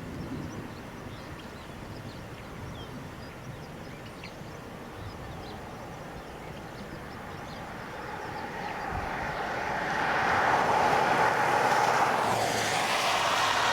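A vehicle passing close by on the road: a rushing noise that swells over several seconds, is loudest in the last few seconds and sweeps past near the end.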